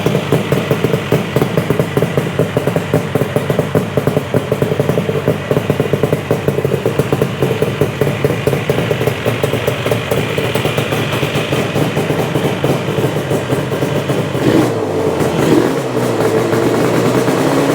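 Yamaha RD400 air-cooled two-stroke twin idling fast and steady, freshly started after sitting unused. Its note changes about three quarters of the way through, with a brief rise and fall in pitch.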